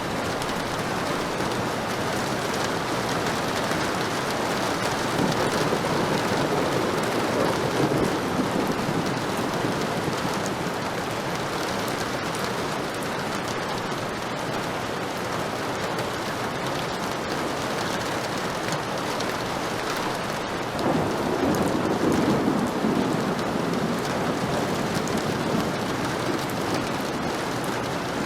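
Heavy rain falling steadily, with two low rolls of thunder swelling up, one about a quarter of the way in and one about three quarters in.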